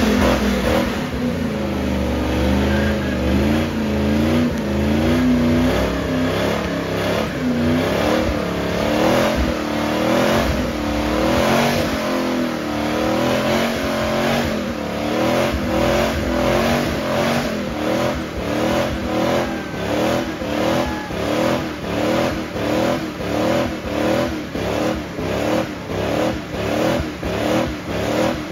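Car engine held at high revs during a burnout, its pitch wavering up and down, then settling into an even pulsing about twice a second through the second half.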